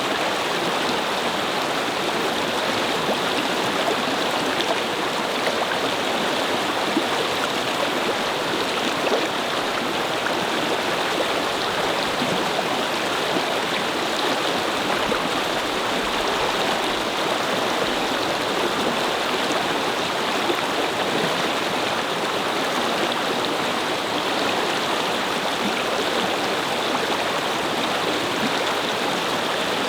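A small brook babbling and flowing steadily over stones, an even rushing of water.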